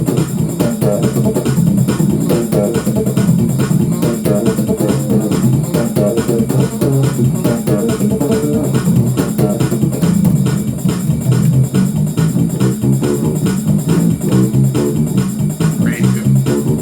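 Electric bass guitar played in fast, continuous runs of low notes in gospel shout-music style.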